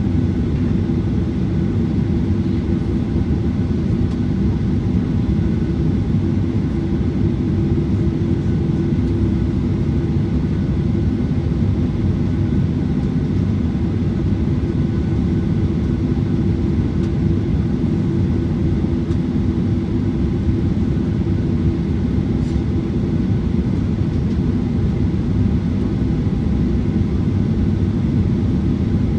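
Steady rumble and hum of a Boeing 737-900ER's CFM56 jet engines, heard from inside the passenger cabin, holding an even pitch and level throughout.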